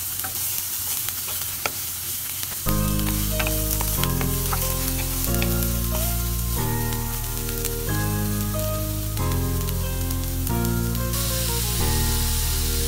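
Diced onions sizzling as they fry in a pan. Background music comes in about three seconds in and carries on over the sizzle.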